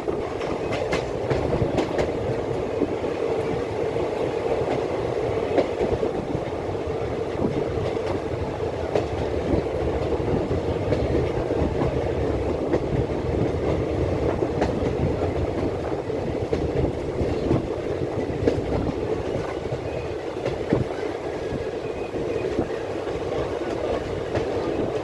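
A train running along the track: a steady rumble with scattered clicks and knocks from the wheels.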